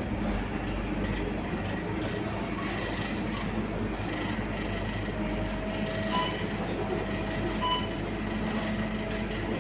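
Scania K230UB city bus under way: its five-cylinder diesel engine running steadily over continuous road and cabin noise. Two short high tones sound about a second and a half apart past the middle.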